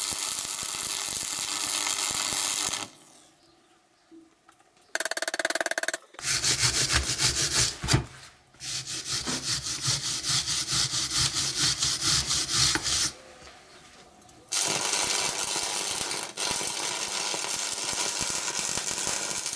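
Stick (arc) welding: the electrode arc crackles and hisses in three long runs with short pauses between them, the middle run pulsing rapidly. Each run is a bead being laid on the base of a hydraulic jack, whose metal melts faster than the steel tube around it.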